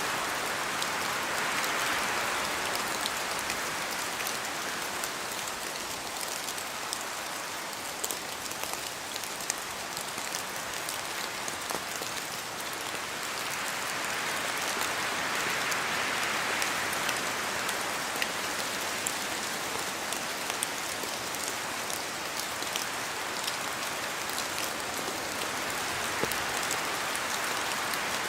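Steady rain falling through forest trees, with scattered sharp drops pattering from the branches. Wind gusts make the rain's hiss swell and ease slowly, louder at the start, about halfway through and near the end.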